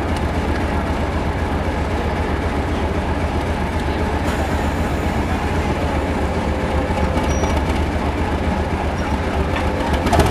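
A train running on the line: a steady low rumble with the noise of wheels on rails.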